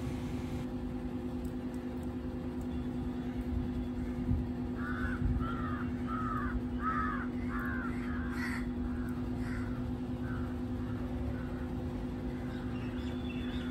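A bird calling in a quick series of about ten short calls, starting about five seconds in and fading out a few seconds later, over a steady low hum.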